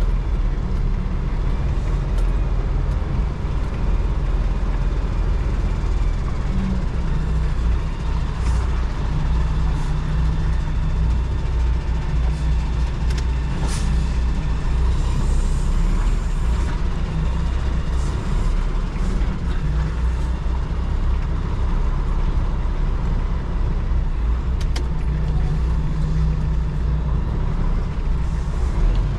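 Semi truck's diesel engine running steadily, heard from inside the cab, with a short hiss about halfway through.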